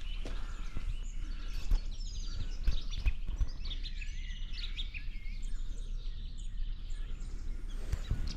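Small birds chirping and singing in the coastal scrub, a scatter of short high chirps with a few quick trills in the middle, over a steady low rumble.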